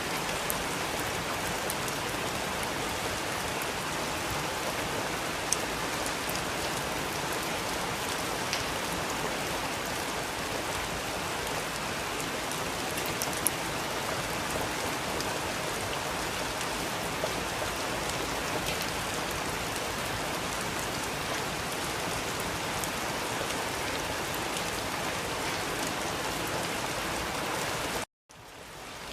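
Steady rain falling, an even hiss with scattered sharper drop ticks. Near the end the sound cuts out abruptly for a moment, then fades back in.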